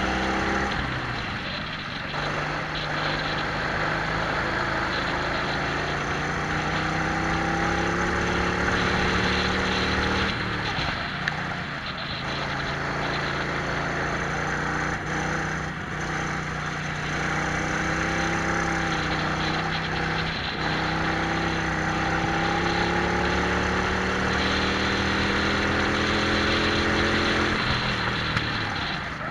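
Twin-engine Prokart's two-stroke engines heard onboard at speed, their pitch climbing slowly through long pulls and dropping sharply each time the throttle is lifted for a corner, several times.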